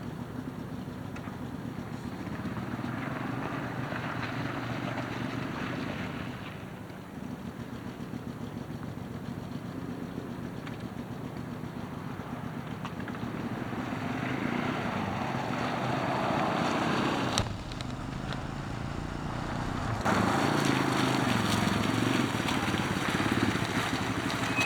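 A 1987 Yamaha Moto-4 350 ATV's single-cylinder four-stroke engine running, its pitch rising and falling now and then.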